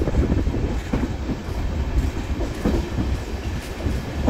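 Passenger train running through a station, heard from aboard at an open coach doorway: a steady low rumble of wheels on rail, with uneven knocks from the wheels passing over the track.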